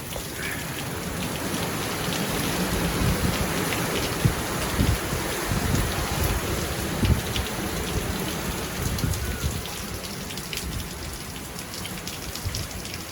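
Hurricane rain pouring steadily with a low, uneven rumble of wind, swelling louder through the middle and easing off again.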